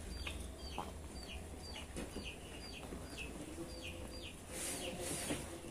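A bird cheeping repeatedly in the background: short, high, falling notes, two or three a second, often in pairs.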